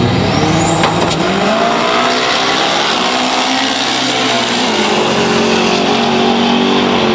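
Drag-racing cars running hard down the strip at full throttle, the engine note rising and falling through the run. A thin high whine climbs steeply over the first couple of seconds and then holds.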